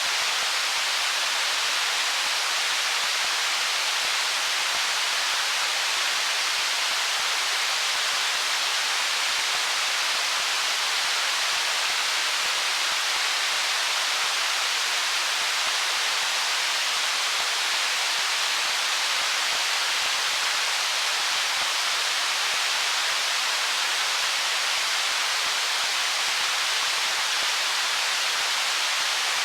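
Stream water rushing steadily among rocks, an even, unbroken hiss with no separate splashes or gurgles.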